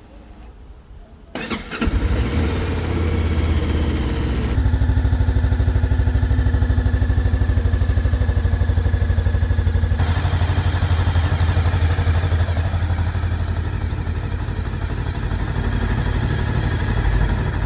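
Kove 500X motorcycle engine started for the first time: quiet, then it cranks and catches about a second and a half in, and settles into a steady idle.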